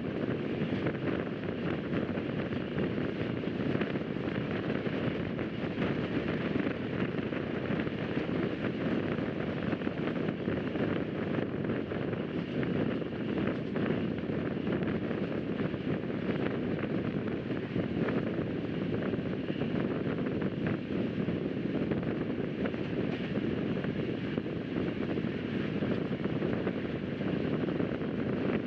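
Rajdhani Express passenger train running at speed: a steady rumble of wheels on the track mixed with wind noise.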